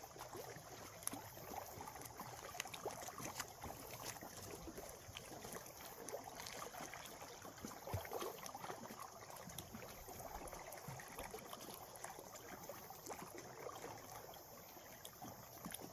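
Faint, steady wash of gentle water at the shoreline, with scattered light clicks and taps from fishing tackle being handled while a rod is re-rigged.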